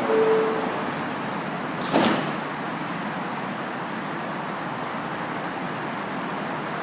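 Door-closing chime of an R160B Siemens subway car ending on its lower note, then the sliding doors shutting with one sharp thump about two seconds in, over steady station noise.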